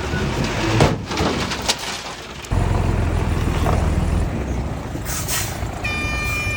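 Heavy earthmoving machinery running, diesel engine rumble with a couple of knocks in the first two seconds. The low rumble jumps suddenly louder about two and a half seconds in, a short hiss comes near five seconds, and a steady high whine starts near the end.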